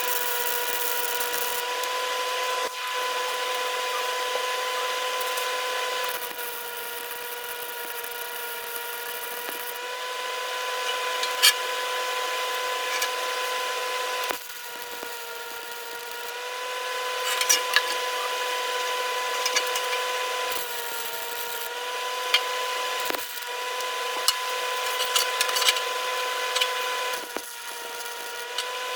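Electric power tool motor running steadily, its pitch and level dipping briefly several times as it is pressed into the work, with scattered sharp crackles.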